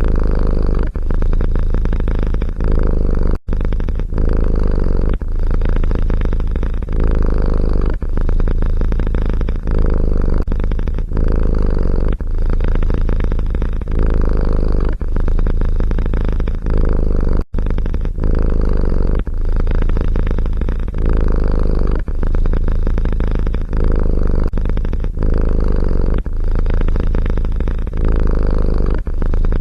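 Cat purring loudly and close up, swelling and easing about once a second with each breath in and out, with two brief abrupt breaks.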